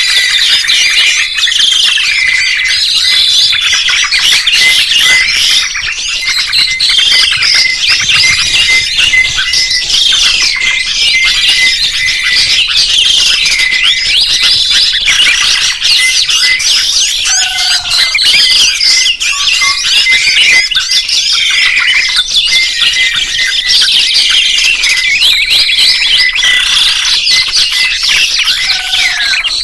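Several songbirds singing at once: a dense, unbroken tangle of overlapping whistles, trills and quick chirps.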